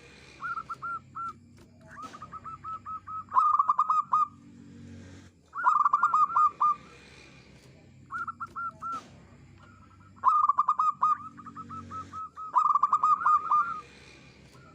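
Zebra dove (perkutut) cooing: bouts of quick, clear staccato notes, repeated about six times with short pauses between.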